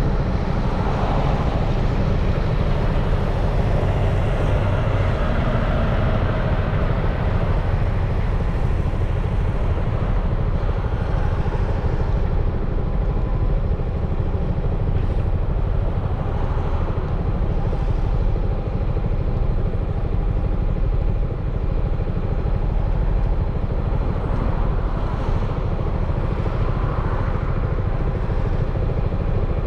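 Yamaha XMAX 300 scooter's single-cylinder engine running while riding, under a steady, heavy low rumble of wind and road noise.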